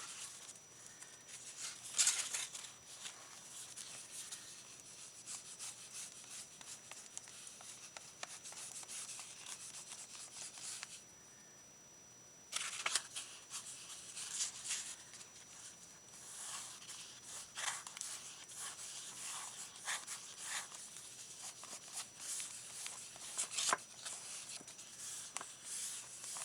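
Paper being handled on a journal page: irregular rustling, rubbing and scraping strokes, with a short pause of about a second and a half near the middle.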